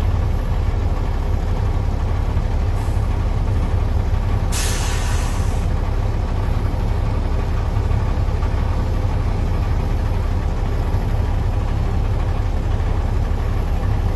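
Dump truck's diesel engine running steadily with a deep rumble, and a burst of air hissing from the truck's air brakes about four and a half seconds in, lasting about a second.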